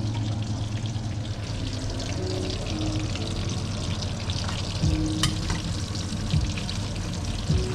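Onions deep frying in hot oil: a steady crackling sizzle, with a few low knocks from about five seconds in and one sharp click.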